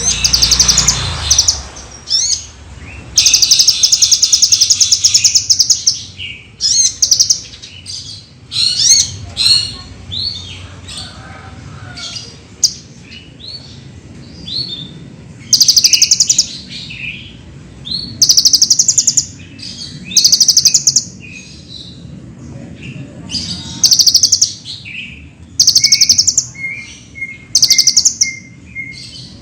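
Kolibri ninja, a sunbird, singing: repeated bursts of very fast, high chattering chirps about a second or two long, with sharp single notes between them and a short run of lower pips near the end.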